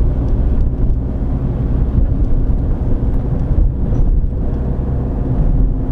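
Steady low rumble of a car driving, heard from inside the cabin: engine hum with tyre and road noise.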